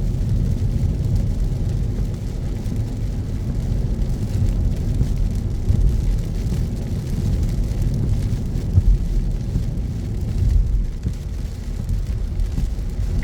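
A car driving on wet city roads in heavy rain: a steady low rumble of road and engine noise, with a faint hiss of rain and wet tyres.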